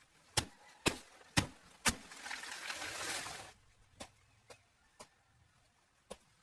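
Four sharp knocks in quick succession, about two a second, followed by a second and a half of rustling noise and then a few lighter, scattered taps.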